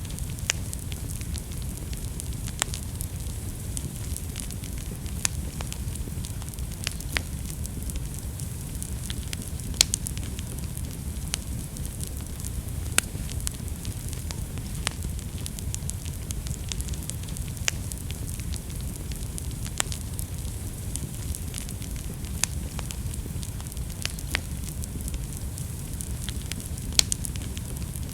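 Wood fire in a fireplace burning with a steady low rumble and hiss, crackling throughout with frequent sharp pops, a few louder snaps among them.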